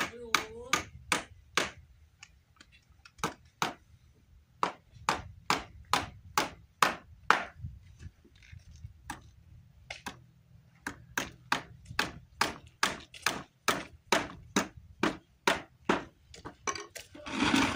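Hammer driving nails into wooden fence boards: a run of sharp, ringing strikes about two a second, with a few short pauses between runs.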